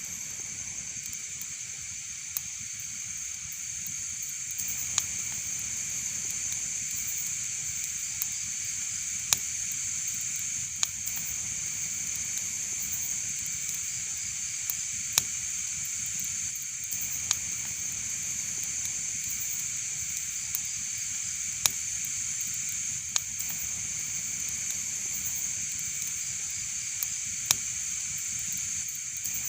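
Wood fire burning, with sharp, scattered crackles and pops, about a dozen at irregular intervals, over a steady high hiss.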